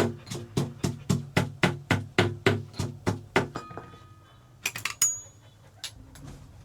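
Rhythmic knocking, about three to four even strikes a second, stopping about three and a half seconds in. A few light clicks and a short clink follow about five seconds in.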